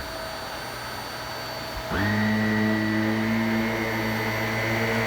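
Shark Navigator upright vacuum cleaner running with a steady hum, then about two seconds in its motor note jumps louder and quickly rises in pitch to a steady whine.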